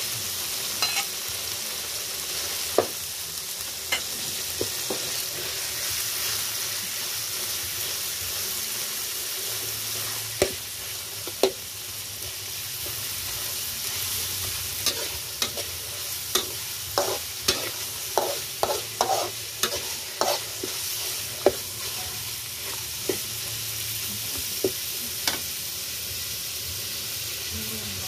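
Minced meat and garlic sizzling in hot oil in a steel wok, with a metal spatula clinking and scraping against the pan as it is stirred. The clicks come thick and fast for several seconds around the middle.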